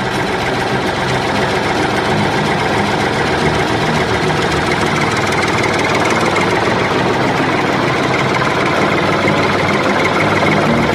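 Small electric motor of a homemade model tractor water tanker running steadily at a constant speed.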